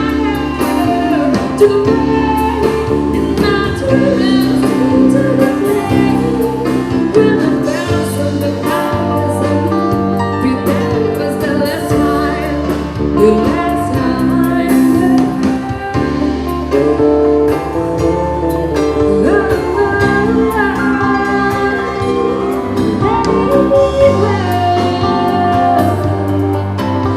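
Mexican banda music: a brass band playing with a singing voice over it.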